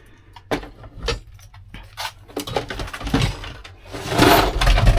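Objects being handled and rummaged through: scattered clicks and knocks, then a louder stretch of rustling and clattering near the end.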